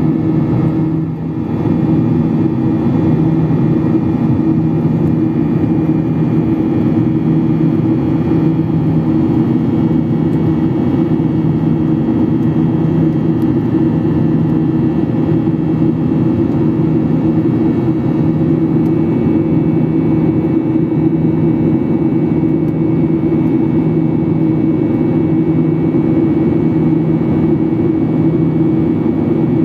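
Steady cabin noise of a Boeing 737-800 in flight: a broad rush of airflow with a low, even hum from its CFM56-7B jet engines, dipping briefly about a second in.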